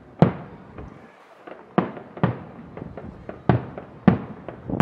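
Aerial fireworks shells bursting: about six sharp bangs at uneven intervals, each trailing off in a short echo, with smaller pops in between.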